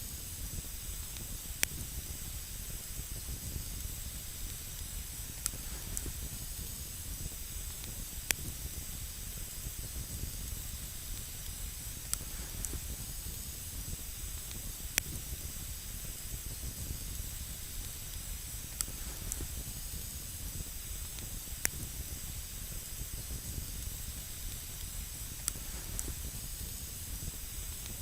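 Wood campfire burning: a steady hiss with sharp single crackles and pops every few seconds.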